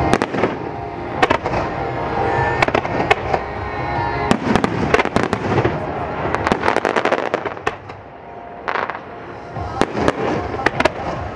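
Aerial firework shells bursting in quick succession: many sharp bangs with crackling, thickest in the middle, easing off briefly, then picking up again near the end.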